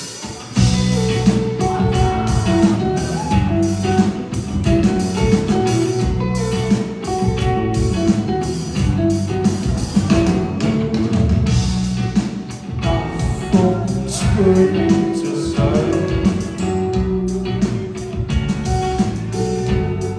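Rock band playing live: electric guitars and drum kit, the full band coming in loud about half a second in and continuing with a steady beat.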